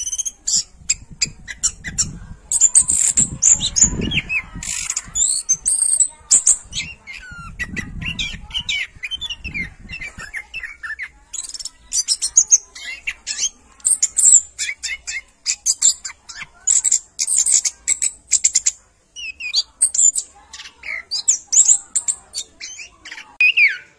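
Birds calling: many short, high chirps in quick succession, with a low rumble underneath during the first ten seconds or so.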